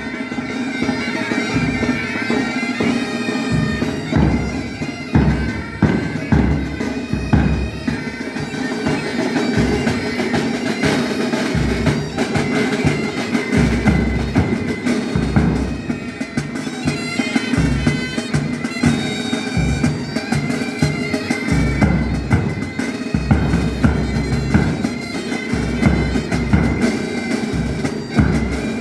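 Pipe band playing: bagpipes with a steady drone under the chanter melody, backed by snare and bass drums beating time.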